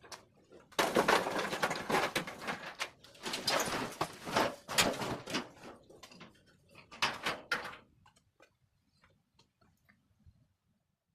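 A run of scraping and clattering noises, several rasping strokes of a second or two each, dying away to a few faint knocks near the end.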